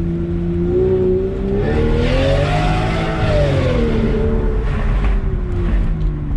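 Straight-piped BMW 7 Series V12 idling, then revved once: the engine note climbs for about two seconds, peaks in the middle and falls slowly back to idle.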